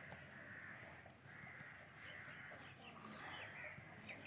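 Faint bird calls repeating about once a second over near-quiet background.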